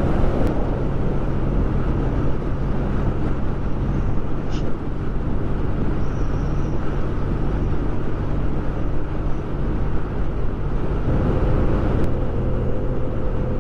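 Kawasaki W800's air-cooled parallel-twin engine running steadily at cruising speed, under heavy wind and road noise. A faint steady higher tone joins near the end.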